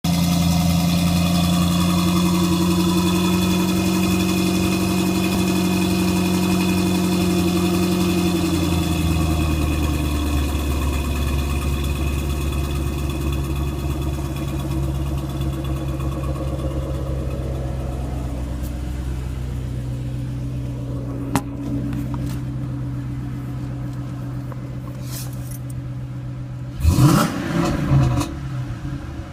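2009 Ford Mustang GT's 4.6-litre V8 through a Pypes off-road X-pipe exhaust, idling high and then settling to a lower steady idle about nine seconds in. Near the end it is revved twice in short blips.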